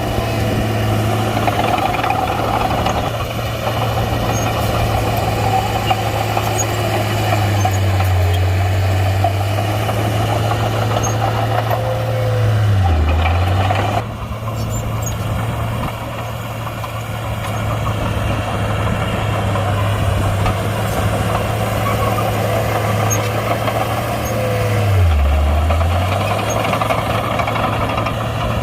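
Komatsu D31-P crawler bulldozer's diesel engine running steadily under work, with a mechanical clatter above it; the engine note dips briefly a few times, most clearly about halfway through and again near the end.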